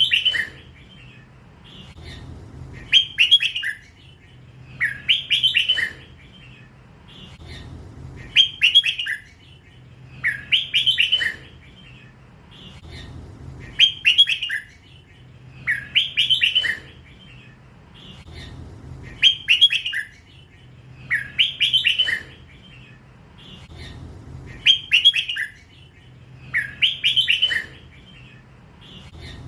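Young red-whiskered bulbul singing in the drawn-out 'lak wai' style prized by Thai bulbul keepers. Its short phrase of quick whistled notes is repeated roughly every two and a half to three seconds, about eleven times.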